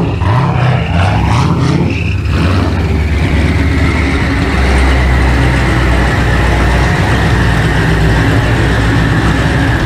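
Car engine running: a few short rising revs in the first two seconds, then a steady low drone with road noise.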